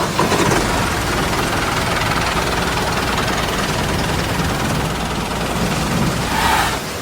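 A small tractor engine running steadily at an even pace.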